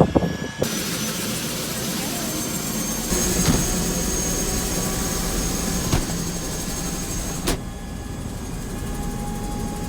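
Helicopter turbine engine running at ground idle before spool-up, heard inside the cabin: a steady high whine over a low hum and hiss. There is a sharp click about seven and a half seconds in, after which the hiss is quieter.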